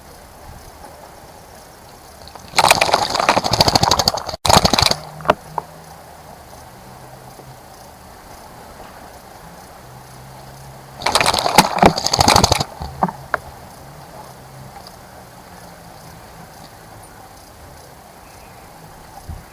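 A bird splashing in a bird bath: two bouts of about two seconds each, several seconds apart.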